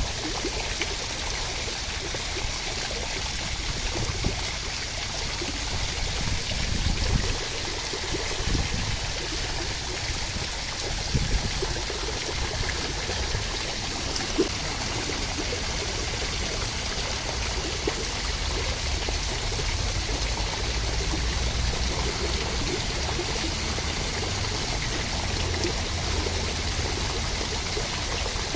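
Steady rain, an even rushing hiss with a few sharp drop ticks and a low rumble that swells now and then.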